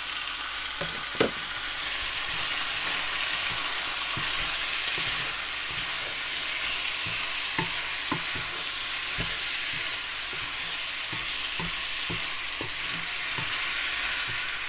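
Diced chicken and red onion sizzling steadily in a hot frying pan while being stirred with a wooden spoon, with scattered light knocks of the spoon against the pan.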